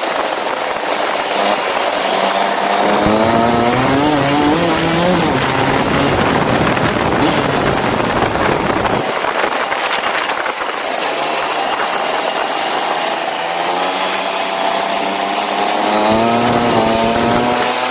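Go-kart engine running under load, its pitch rising as it accelerates twice and falling between, over a steady rushing noise.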